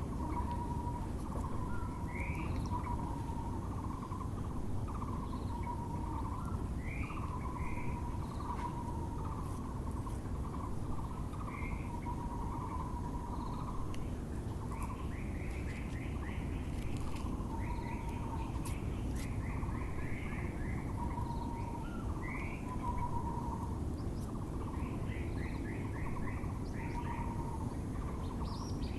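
Taiwan barbet (Müller's barbet) calling a continuous run of repeated low notes, with other small birds chirping higher over it and steady low background noise beneath.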